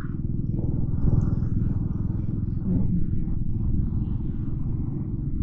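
Motorcycle engine running with a steady low rumble and fast pulse, heard from the rider's own bike, with faint street traffic behind it.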